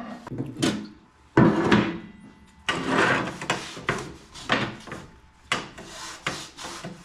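Scrap steel being cleaned and handled: irregular scraping and rubbing strokes, with a sharp knock about one and a half seconds in.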